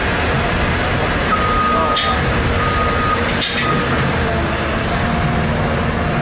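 Heavy vehicle's engine running with a reversing alarm beeping three times at one steady pitch, and two short bursts of air hiss.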